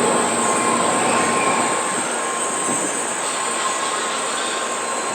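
Shinkansen train moving along the station platform: a steady rushing rail and air noise with a thin, steady whine over it.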